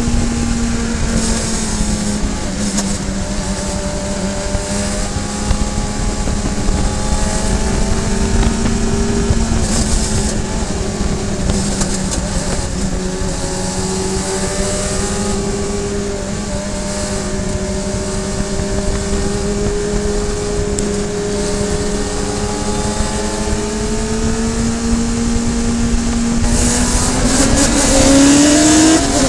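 Radical SR3 sports racing car's engine running at a steady, high pitch for a long stretch, its tone drifting only slightly, then revving up sharply as it accelerates near the end, with wind and road noise over it.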